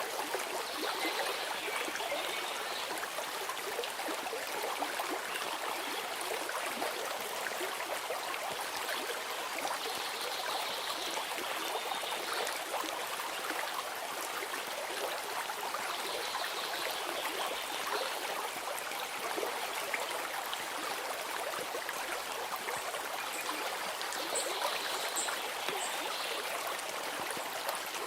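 A stream of water running and babbling steadily. A brighter high hiss swells every several seconds, and a few short high notes come in near the end.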